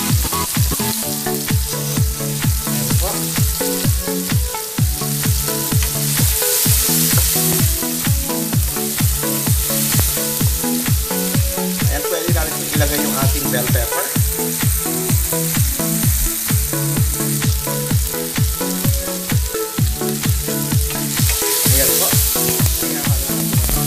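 Chopped onion, garlic and tomato sizzling in oil in a frying pan, stirred with a wooden spatula, under background music with a steady beat.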